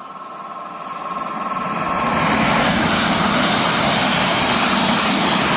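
An electric passenger train passing through the station. Its noise builds over the first two seconds or so, with a faint high whine early on, then holds as a loud, steady rush of wheels on rails and air.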